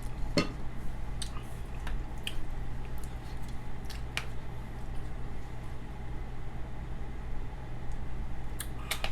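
Wet mouth sounds close to the microphone while eating or drinking: a few scattered clicks and smacks over a steady low hum.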